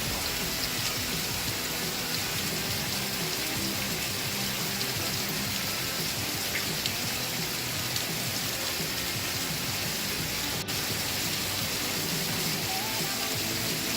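Steady rain hiss, with a pop song playing faintly and muffled underneath.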